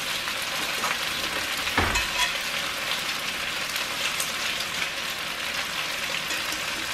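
Raw rice sizzling as it fries in hot garlic oil in a pot, a steady frying hiss, with one low knock about two seconds in.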